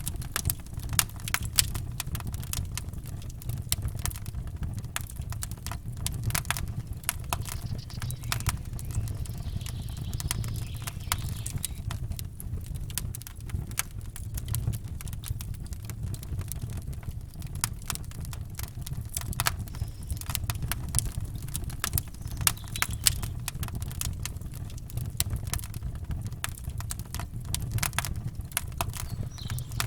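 Campfire crackling and popping, with irregular sharp snaps throughout over a steady low rumble.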